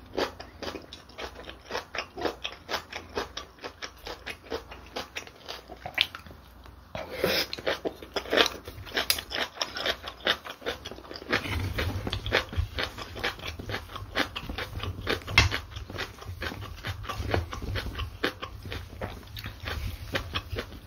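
Close-miked chewing of a mouthful of bibimbap (rice mixed with seasoned vegetables and gochujang): rapid, irregular wet mouth clicks and soft crunches. A low rumble joins about halfway through.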